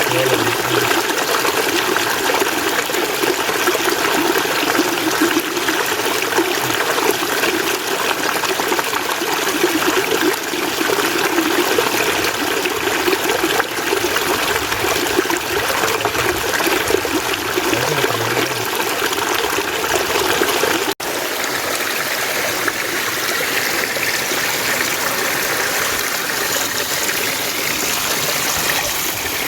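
Mountain stream running steadily, a continuous rush of water. About two-thirds of the way through it drops out for an instant and resumes with a slightly brighter, hissier sound.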